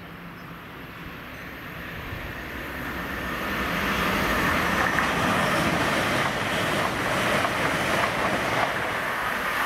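A train approaching and passing at speed on the main line, its rushing wheel and air noise building over about four seconds, then staying loud.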